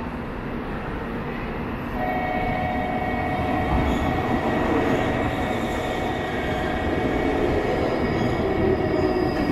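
Local electric or diesel train running on the rails, a steady rumble, with a steady whine that comes in about two seconds in and holds.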